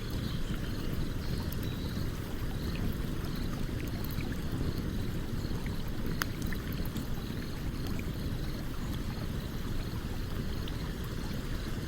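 Campfire crackling with scattered small pops, one sharper pop about six seconds in, over the steady low rush of a stream.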